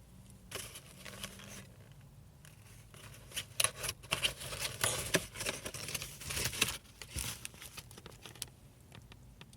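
Irregular rustling and crinkling, with small sharp clicks, over a low steady hum; it is busiest in the middle.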